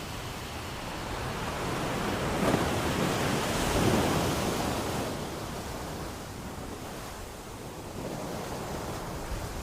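Ocean waves breaking on a beach: a steady wash of surf with one wave building and crashing at about three to four seconds in, then ebbing away.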